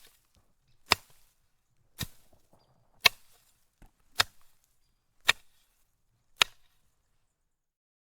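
A series of six sharp impacts, evenly spaced about once a second.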